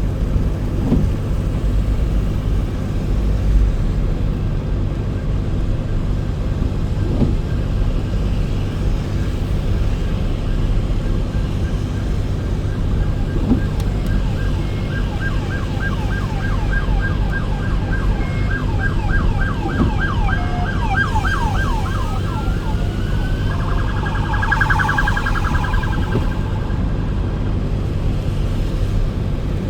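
Steady road and engine rumble from a moving car. About halfway through, an emergency-vehicle siren comes in, sounding a fast yelp, then switches to a rising wail and warble before fading away a few seconds later.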